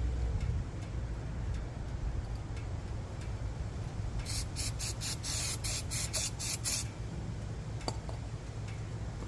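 A spraying hiss about four seconds in, pulsing several times over about two and a half seconds, over a low steady rumble.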